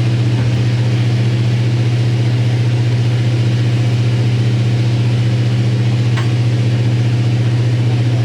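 Steady low drone of a running engine, even and unchanging throughout, with a faint metallic tap about six seconds in.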